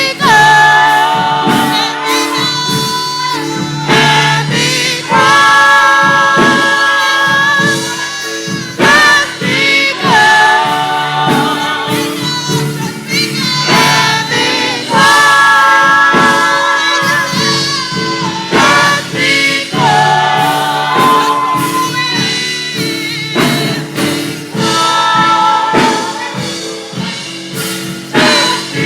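Gospel choir singing with instrumental accompaniment, in long held phrases.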